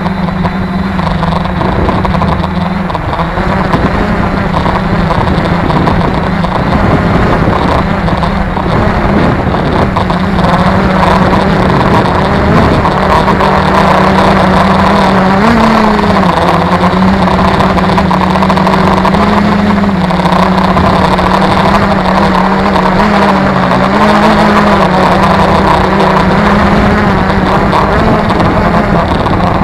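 Tarot 650 quadcopter's electric motors and propellers droning steadily in flight, the pitch wavering slightly now and then as the flight controller corrects against strong gusty wind. Wind buffets the microphone underneath.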